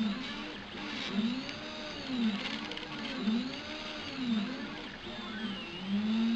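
Stepper motors of a Prusa i3–type 3D printer whining as the axes move, each move a tone that rises and then falls in pitch, about one a second, with a longer, louder move near the end.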